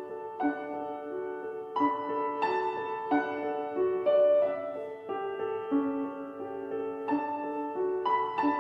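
Gentle background piano music, single notes and chords struck one after another and left to ring.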